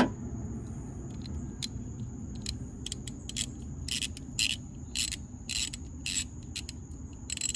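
Bolt being screwed out of a corroded battery terminal clamp: a run of short, irregular metallic clicks and scrapes, several a second, starting about a second and a half in.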